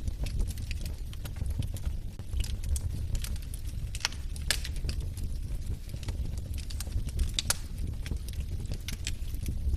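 Wood fire burning in a fireplace: a steady low rumble of flames with irregular sharp crackles and pops from the logs, a few louder pops about halfway through and again later.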